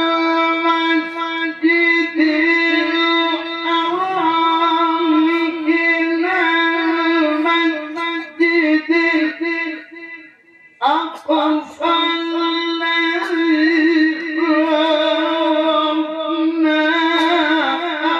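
A Quran reciter's voice in tilawah style, holding a long melismatic note with ornamented wavering. It breaks off for a breath about ten seconds in, then sweeps back up and sustains another long note.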